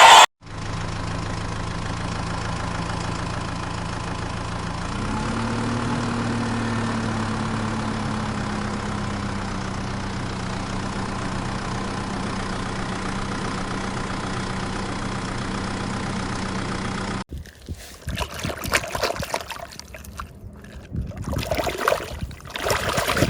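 An engine running steadily at idle. Its pitch steps up a little about five seconds in, then slowly sinks back. It cuts off suddenly near the end, and uneven knocks and rustles follow.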